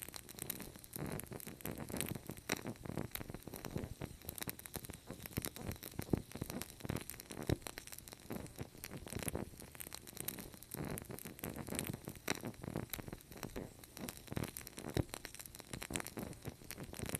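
Fireplace fire crackling: a dense, irregular run of sharp pops and snaps over a soft hiss, with a few louder snaps standing out.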